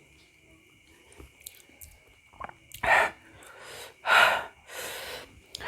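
Soft chewing, then from about three seconds in three loud, hissing breaths through the open mouth, the last one longer, as the eater reacts to the burn of very spicy meatballs.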